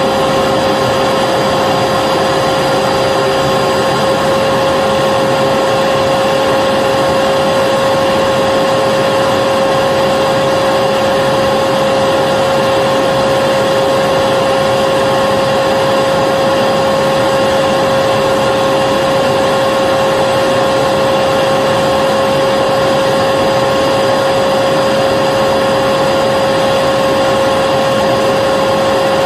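Vacuum cleaner running steadily: a constant motor whine over a rush of air, with no change in pitch or loudness.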